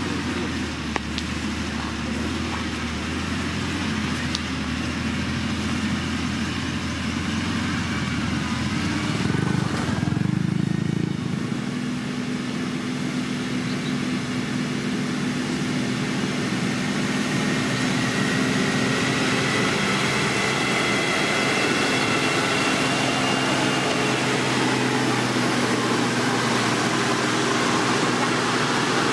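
Diesel engine of heavy road-building machinery running steadily. Its note changes about ten seconds in and then holds steady again.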